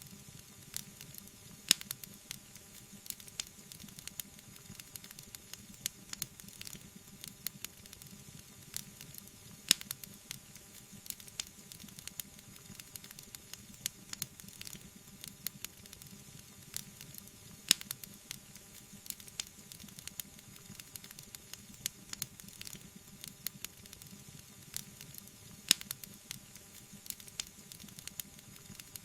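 Wood fire burning: continuous crackling and popping over a soft hiss, with a sharper, louder pop about every eight seconds.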